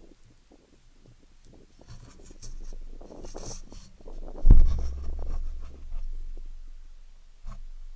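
Rustling and scraping, then a sudden heavy low thump about halfway through, followed by a low rumble that fades over a few seconds; a softer thump comes near the end.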